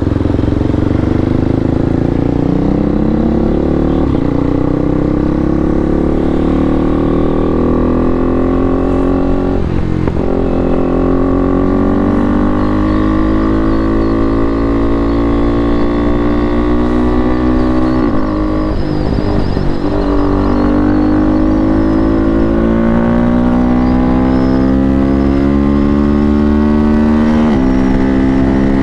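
KTM RC390's single-cylinder engine through a full-system aftermarket exhaust, pulling hard under acceleration: the pitch climbs steadily, then drops sharply at each gear change, about four times.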